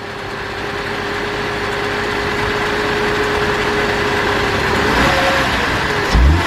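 2005 Cadillac CTS's 3.6-litre V6 running with freshly replaced connecting rod bearings, growing louder over the first few seconds with a steady whine, then a short blip of the throttle near the end. No knock is heard: the bearing knock is cured.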